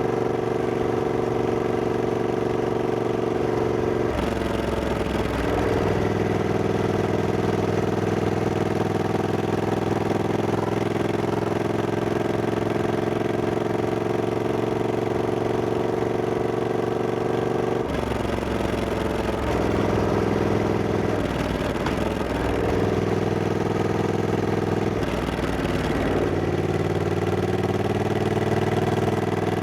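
Triumph Scrambler 1200X's 1200 cc parallel-twin engine running on the move, a steady engine note. Its pitch shifts about 4 seconds in and again around 18 seconds, wavers with throttle changes for a few seconds, then rises as the bike accelerates near the end.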